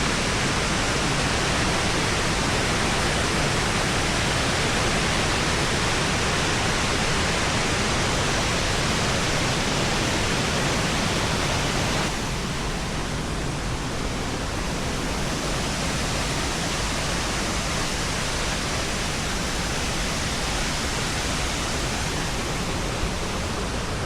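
Waterfall on the Big Sioux River: water rushing steadily over quartzite rock, a dense even sound that drops slightly in level about halfway through.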